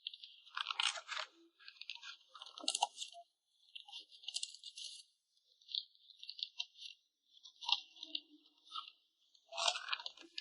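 Plastic packaging crinkling and rustling in short, irregular bursts as it is handled and folded while photocards are packed.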